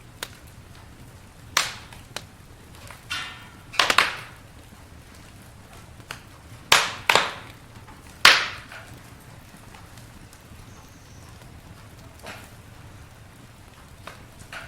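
Campfire wood crackling, with scattered sharp pops over a low steady background; the loudest pops come about four seconds and about eight seconds in.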